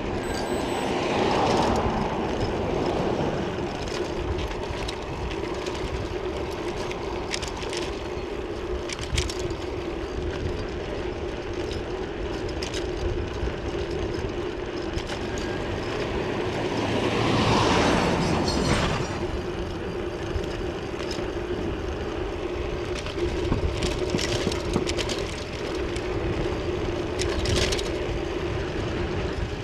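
Wind and road noise on a bicycle-mounted camera while riding, with a steady hum and scattered light ticks. A vehicle passes about two seconds in and another around seventeen to nineteen seconds in.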